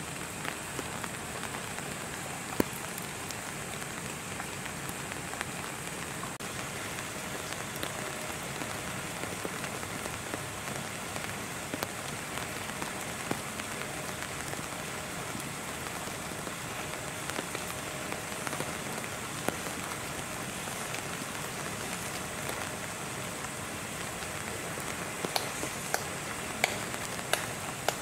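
Steady rain falling, with many small drop ticks throughout and a few sharper drips near the end.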